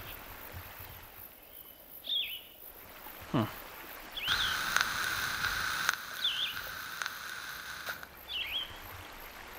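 Bird chirping: four short calls a couple of seconds apart over a light background hiss. A steady high tone sets in about four seconds in and stops about eight seconds in.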